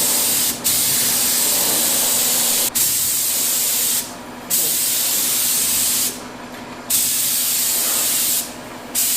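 Compressed-air paint spray gun spraying in long hissing passes, the trigger let off for short gaps about four times.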